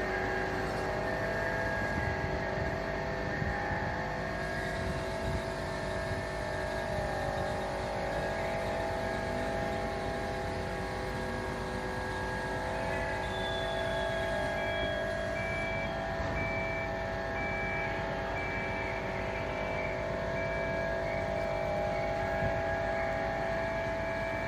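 A fire truck running steadily: a constant mechanical hum with several steady whining tones. From about halfway through, a faint beep repeats at an even pace.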